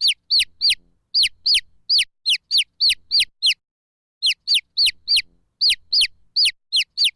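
Baby chicks peeping: short, high-pitched calls, each sliding down in pitch, about three a second, with a brief pause about halfway through.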